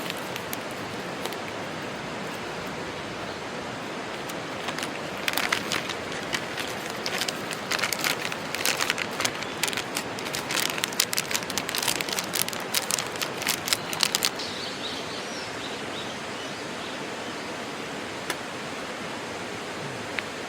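Steady outdoor background hiss, with a run of quick, irregular crackling clicks from about five seconds in that stops abruptly near fourteen seconds.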